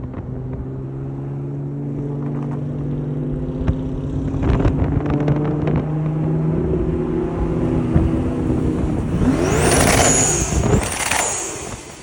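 Twin-turbo Audi engine running at a steady pitch, then revved hard twice near the end with a loud high whistle rising and falling from the turbos, before dying away.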